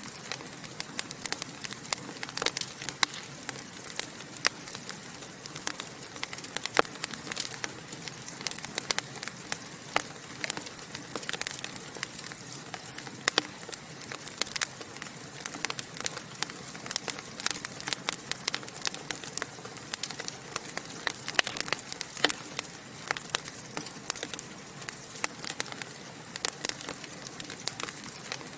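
Fire in a fireplace crackling and popping, with many irregular sharp snaps a second over a soft, steady hiss.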